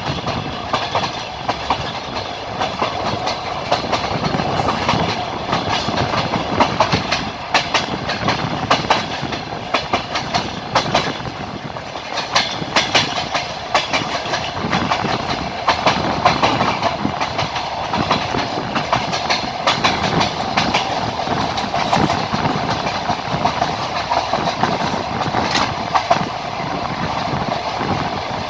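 Wheels of a moving passenger train clattering over rail joints, heard from inside the carriage by the window: steady rolling rumble with frequent clicks and knocks.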